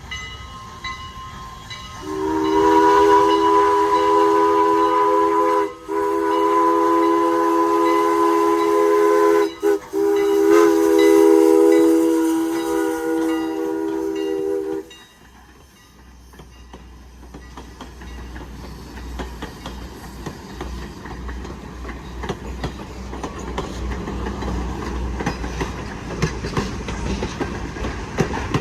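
A train's multi-note chime blows the long-long-short-long grade-crossing signal, held as a steady chord. Then the low rumble and clatter of the train rolling past builds up.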